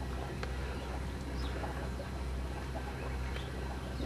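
Faint, short bird calls over a steady low background rumble.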